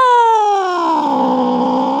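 Angry domestic cat yowling: one long drawn-out call whose pitch slides steadily down into a low moan.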